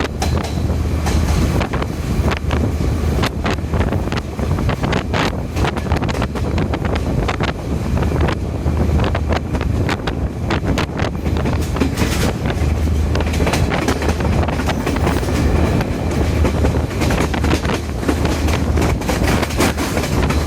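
Passenger train running along the track: wheels clattering over rail joints in irregular clicks and knocks over a steady low rumble. The train is a 2019 Chinese-built diesel multiple unit.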